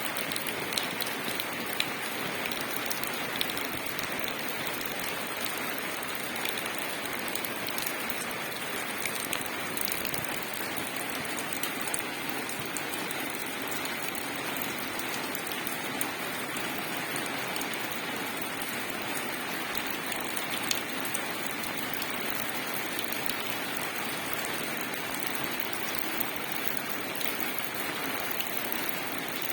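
Steady rain falling on leaves: an even hiss with scattered drip ticks.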